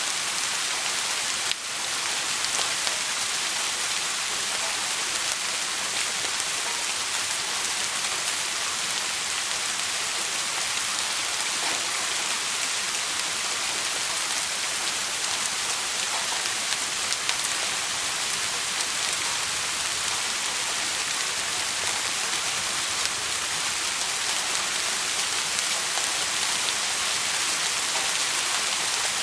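Steady rain falling in a continuous, even hiss, with a brief drop in level about a second and a half in.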